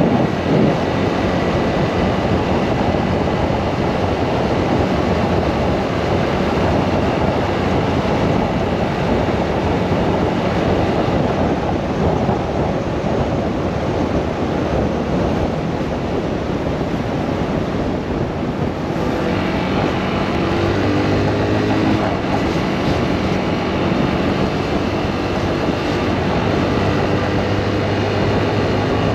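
Motorcycle engine running under way, with wind rushing on the microphone. About two-thirds of the way through, the wind noise eases and the engine's steady note comes through more clearly.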